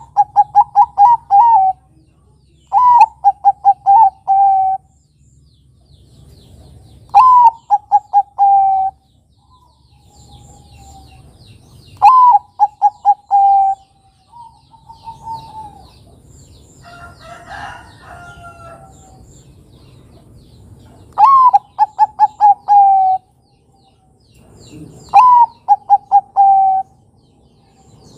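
Zebra dove (perkutut, Bangkok song strain) cooing: six phrases, each a higher opening note falling into a quick run of short coos. Faint chirps of other birds sound between them.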